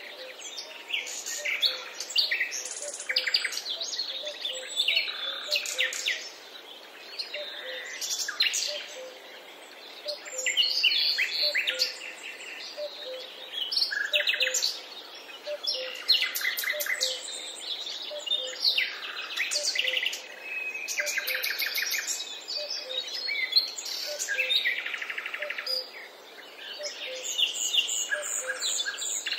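Several songbirds singing at once, a continuous mix of overlapping chirps, trills and short whistled phrases, with a faint low note repeating about once a second underneath.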